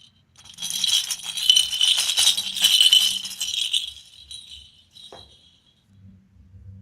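Candy and packaging being handled close up, a rattling, crinkling rustle that fades away after about three seconds, followed by a single click.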